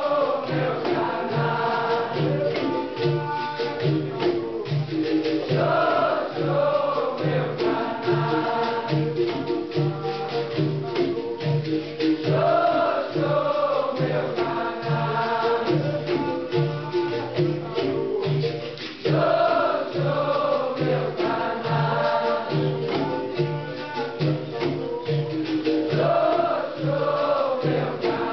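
Capoeira Angola roda music: a group singing chant-like phrases, with a new phrase starting about every six and a half seconds, over a regular low percussion beat about twice a second, with tambourine-like and rattling percussion.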